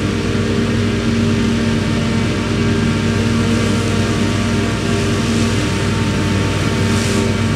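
Heavy diesel farm machinery running steadily under load, with a constant engine drone and a rushing noise over it.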